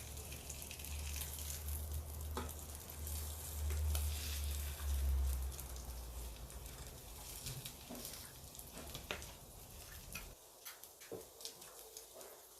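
Bacon and eggs sizzling and crackling in a frying pan, with scattered sharp pops. A low hum underneath cuts off abruptly about ten seconds in.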